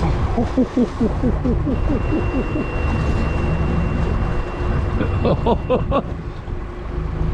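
Fishing boat's engine and wind on the microphone make a steady low rumble. About a second in, a quick string of short falling-pitched sounds comes over it, and a brief cluster of higher pitched sounds follows near six seconds.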